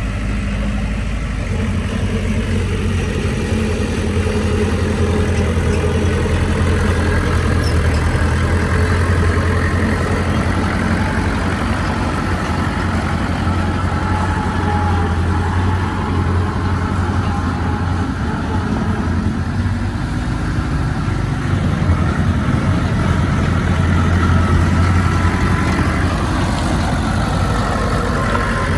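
Heavy diesel engine of earthmoving machinery running steadily, a continuous low hum whose pitch drifts up and down a little.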